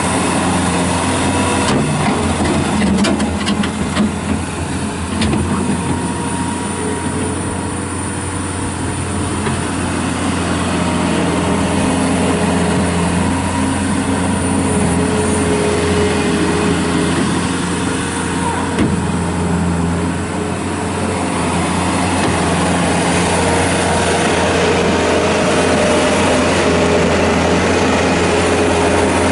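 A Bobcat S185 skid steer loader's diesel engine runs steadily while the machine is worked, its pitch rising and falling with the throttle. A few sharp knocks sound a couple of seconds in.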